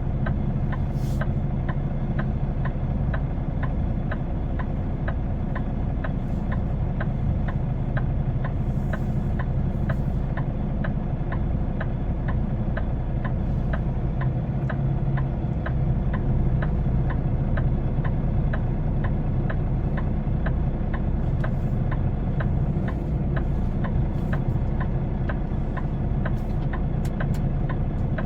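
Semi truck's diesel engine idling steadily, with a regular fast ticking of about three ticks a second over it.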